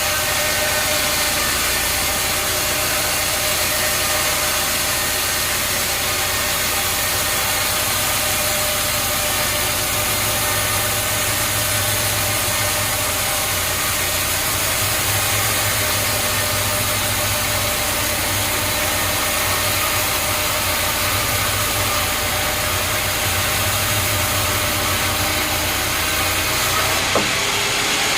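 Sawmill machinery running steadily: a loud, even engine-like drone with fixed tones over a hiss. A short click near the end, where the sound changes.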